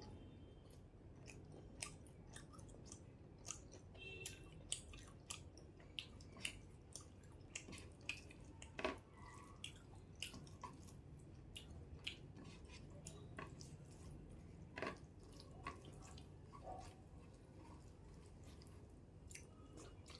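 Close-miked chewing and mouth sounds of a person eating a meal of rice and fish curry: many soft wet smacks and little clicks at an irregular pace, fairly quiet.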